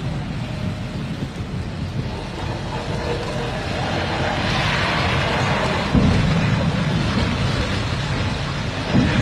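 Large mining dump truck's diesel engine running with a deep, steady rumble. A rushing noise builds in the middle, and the rumble grows heavier suddenly about six seconds in.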